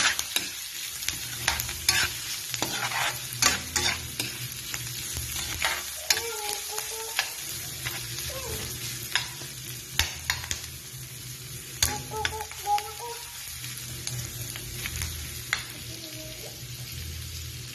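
Chopped garlic, ginger and onion sizzling in hot oil in a wok while a spatula stirs them, with frequent sharp scrapes and clicks of the spatula against the pan.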